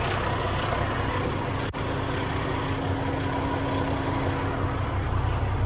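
Diesel engine of a Kenworth T880 quad-axle dump truck idling steadily.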